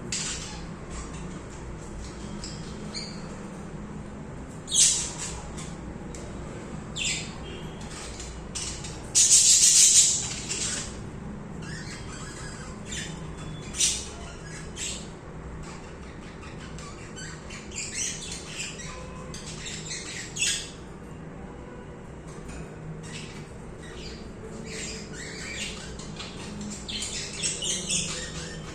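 Budgerigars chirping and squawking in short, sharp calls scattered irregularly, with a loud burst of chatter about nine to ten seconds in.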